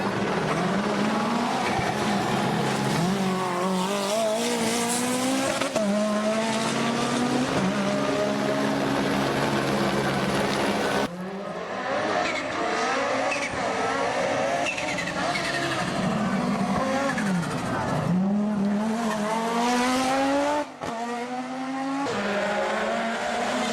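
Rally car engines revving hard, climbing in pitch and dropping at each gear change, as the cars drive past at speed. The sound changes abruptly about eleven seconds in and again near the end as the footage cuts to other cars.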